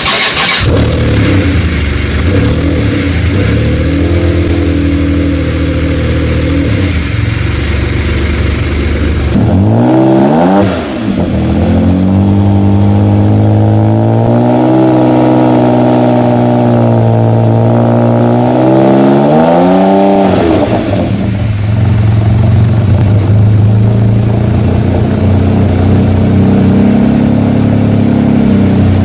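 Jaguar XJ220's twin-turbo V6 running just after start-up at a steady idle. About nine seconds in it is blipped, then held at raised revs with the pitch rising and falling for about eight seconds. It drops back to idle about twenty seconds in.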